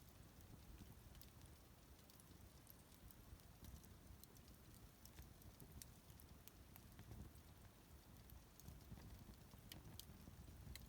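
Faint crackling of a wood bonfire: scattered small sharp pops and ticks over a low steady rumble.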